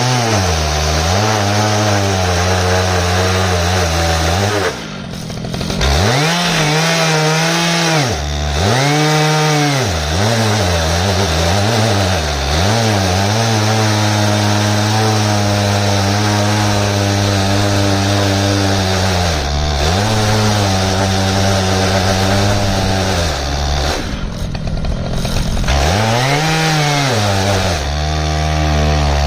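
Stihl MS 881 two-stroke chainsaw running at high revs in an Alaskan chainsaw mill, cutting lengthwise through an ash log. The engine pitch sags and recovers again and again under load, holds steady for several seconds in the middle, and drops off briefly about five, eight and twenty-four seconds in before revving back up.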